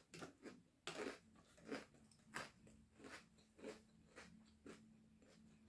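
Close-miked chewing of crisp house-salad lettuce: soft, irregular crunches, some every half second or so, fading toward the end.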